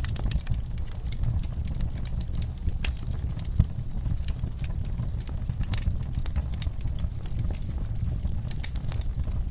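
Wood fire burning in a fireplace: irregular sharp crackles and pops over a steady low rumble of the flames, with one louder pop a little past a third of the way in.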